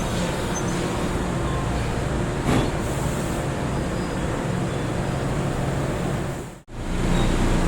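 NJ Transit commuter train running through the station: a steady low rumble under an even hiss. The sound breaks off abruptly for an instant near the end.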